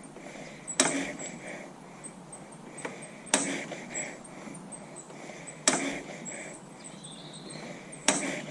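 Four sharp knocks, each with a short ringing tail, evenly spaced about two and a half seconds apart. Faint short high chirps come between them.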